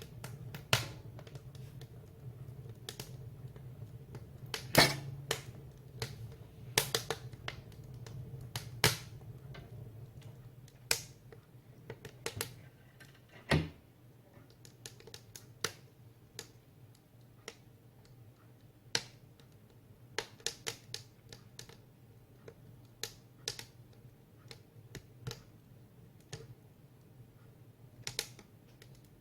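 Split firewood burning in a wood stove, crackling and popping in irregular sharp snaps, the loudest pop about five seconds in, over a low rumble of the fire that eases after about ten seconds.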